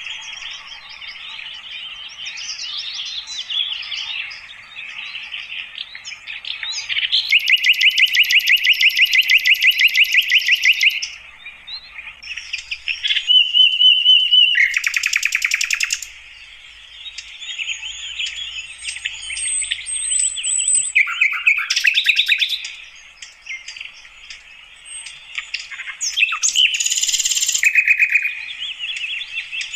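Sikatan londo flycatcher singing: a continuous string of varied chirps and twitters, broken by loud rapid trills, one held for about four seconds, and a few short buzzy phrases.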